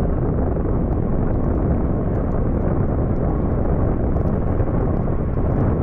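Wind rushing over the microphone of a moving rider, a loud, steady, low rumbling noise.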